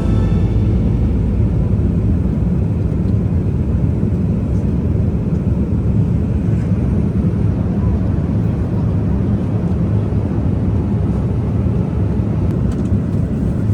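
Steady low rumble of a Boeing 787-9 airliner cabin in flight: engine and airflow noise heard from an economy-class seat.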